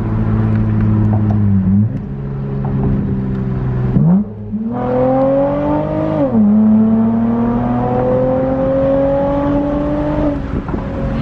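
2010 Acura TL's V6 engine heard from inside the cabin, accelerating hard through the gears and screaming. The revs climb, fall sharply at each shift about two, four and six seconds in, then rise in a long slow climb and ease off near the end.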